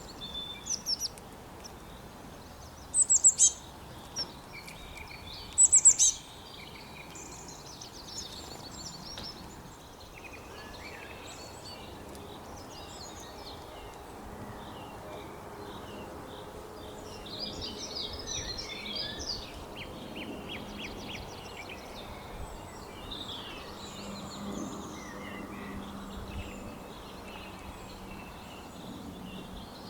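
Several wild birds chirping and trilling over a steady background hiss of outdoor ambience, with two loud sharp calls about 3 and 6 seconds in and a busier stretch of calling in the middle.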